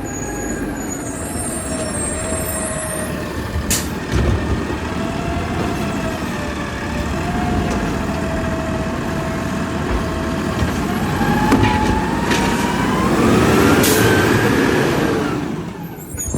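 Peterbilt garbage truck running at the curb. Its engine tone wavers, then climbs in pitch and gets louder for several seconds toward the end, typical of the engine revving to drive the hydraulics. Two short, sharp sounds break in, one a few seconds in and one near the end.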